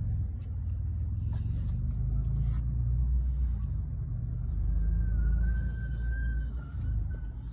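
1987 Ford Mustang GT's 5.0-litre V8 idling with a low, steady rumble. A faint high tone comes in about five seconds in and lasts about two seconds.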